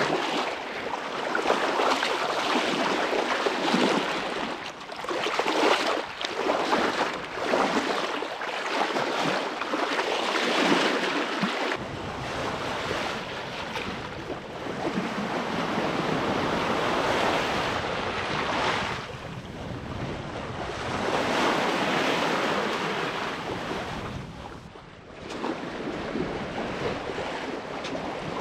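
Seawater rushing and splashing along a moving sailboat's hull, swelling and easing every few seconds, with wind on the microphone. A deeper wind rumble joins about twelve seconds in.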